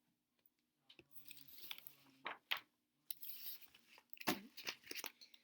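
Faint scattered clicks and light rustling, like small objects or paper being handled on a desk, a little busier near the end.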